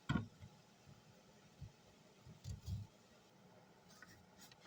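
A knife cutting a large carrot into sticks on a cutting board: a few faint, soft knocks spread out, with quiet between them.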